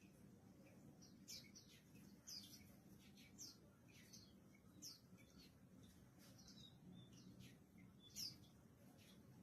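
Mountain white-eye (Zosterops montanus) giving short, high chirps, each falling quickly in pitch, about one a second, with the loudest call a little past the middle and another near the end.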